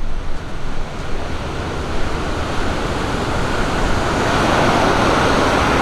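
Ocean surf breaking and washing up the beach, a wave swelling louder over the last couple of seconds, with wind buffeting the microphone.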